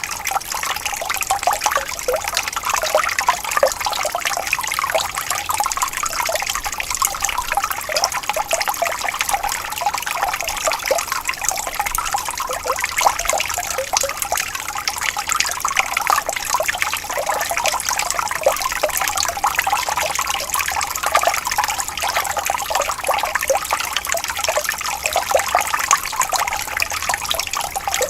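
Water flowing and trickling steadily over stones, a continuous babble of small splashes.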